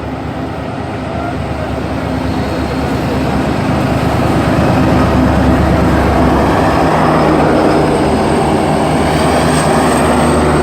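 A train passing close, a steady engine drone over a rumble that grows louder over the first few seconds and then holds steady.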